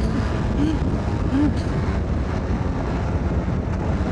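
Motorcycle riding at speed: engine running steadily under wind buffeting on a helmet microphone.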